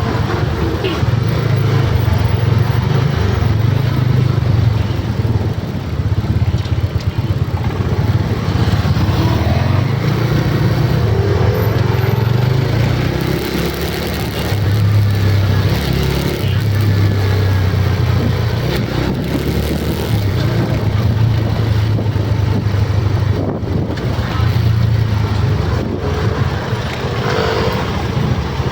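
Motor vehicle running, a steady low rumble that swells and eases, with road noise.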